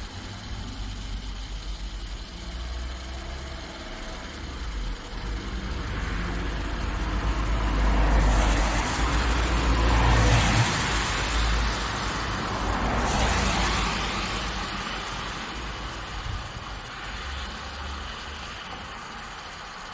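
Motor vehicle noise: a steady low engine rumble, with a louder rushing sound that builds up, peaks between about eight and fourteen seconds in, then fades away.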